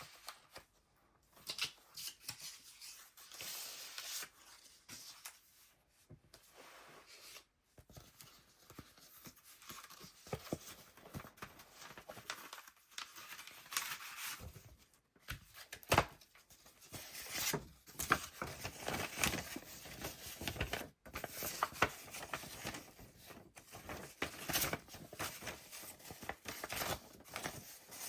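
Pages of a handmade junk journal being turned by hand: irregular paper rustling with many short, sharp crackles as the thick, embellished pages move.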